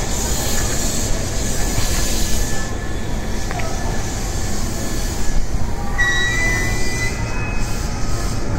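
JR East E233 series electric train running into the platform and braking, with a steady rumble of wheels on rail. A high brake squeal rings out briefly about six seconds in as it slows toward a stop.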